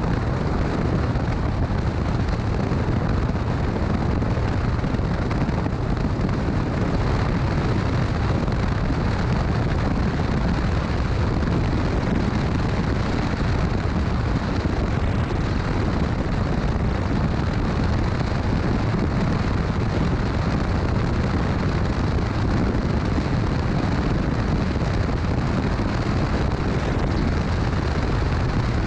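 Motorcycle on the move: steady wind buffeting on the microphone mixed with the engine running, a dense low rumble that holds even throughout.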